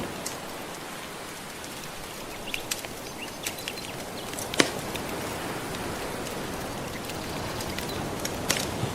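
Wood fire crackling, with scattered sharp pops, the loudest about halfway through, over the steady wash of gentle ocean waves.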